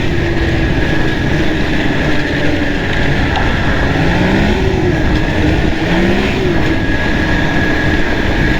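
Arctic Cat Thundercat snowmobile engine running hard along a trail, its pitch rising and falling back twice, about four and six seconds in, with a steady high whine and heavy wind noise on the microphone.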